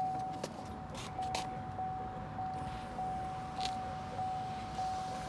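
Car warning chime sounding on one steady pitch, pulsing about one and a half to two times a second, over a low hum.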